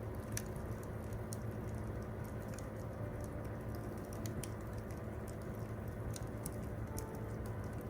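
Wood campfire crackling: irregular sharp snaps and pops over a steady low rumble.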